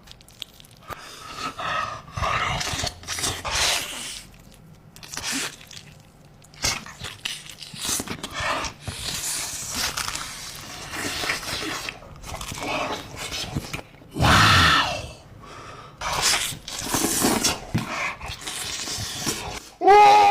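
Close-miked eating sounds: someone biting and chewing pizza, in irregular crunches and mouth noises.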